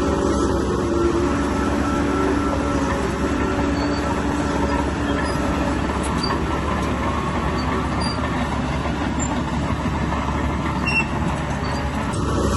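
Bulldozer working: a steady mix of diesel engine and steel track noise, with a whining tone that fades after the first few seconds.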